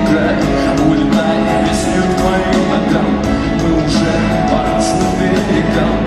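Live rock-band music in a large arena: singing over sustained keyboard or string chords, guitar and a regular drum beat.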